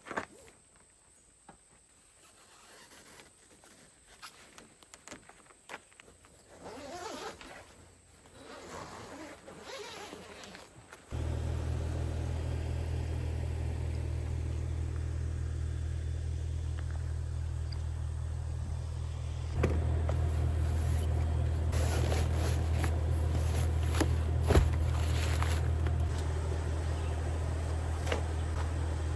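Quiet at first with scattered small knocks and rustles, then a truck's low, steady engine and road rumble cuts in suddenly about a third of the way in and runs on, growing a step louder about two-thirds through.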